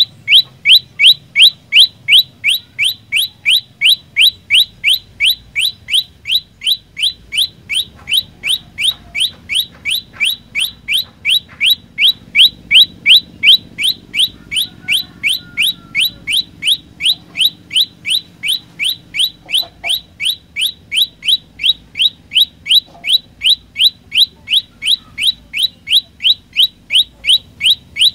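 Prenjak lumut singing a long, unbroken series of sharp upward-sweeping chirps, about two to three a second, in a steady rhythm.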